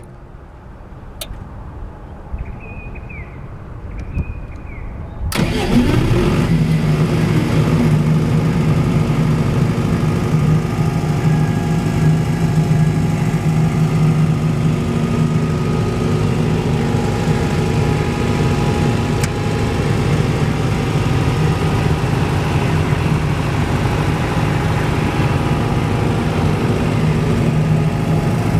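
Silenced 50 kVA diesel generator starting up about five seconds in, after two short high beeps, then running steadily with a low, even hum.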